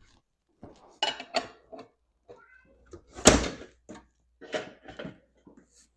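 Pots and lids knocking and clattering while someone rummages through a kitchen cupboard for a pot lid, with a brief squeak and the loudest knock about three seconds in.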